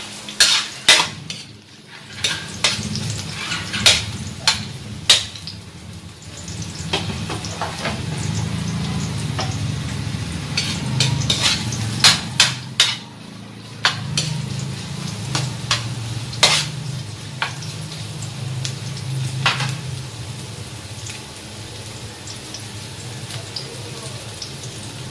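Chopped onion and garlic sizzling in hot oil in a metal wok, with a metal spatula scraping the pan and knocking sharply against it now and then as it stirs.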